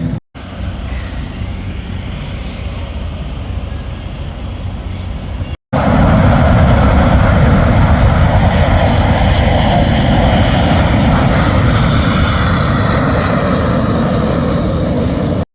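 Aircraft engine noise at an airshow, heard in two edited clips. The first is a steady rushing noise. After a cut about six seconds in it is louder, and it grows hissier toward the end as the aircraft nears.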